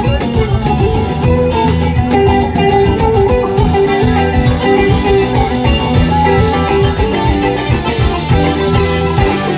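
Rock band playing an instrumental jam: guitar lines over bass and drum kit.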